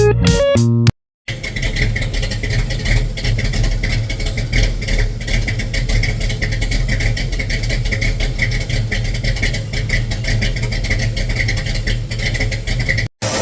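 Ford 289 V8 of a 1965 Mustang running steadily. Electric-guitar music ends about a second in, just before the engine sound starts, and the sound cuts out briefly near the end.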